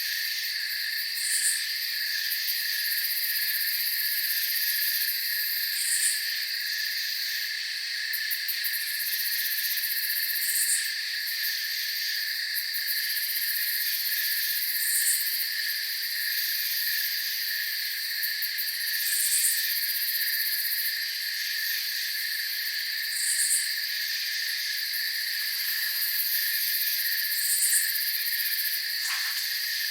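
Night chorus of crickets: a steady high trill, with a short, higher chirp standing out about every four and a half seconds.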